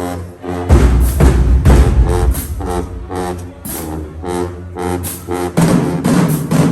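Marching band playing: short, punchy brass notes in a repeated rhythm over heavy low brass and drums. The low end is loudest from about a second in.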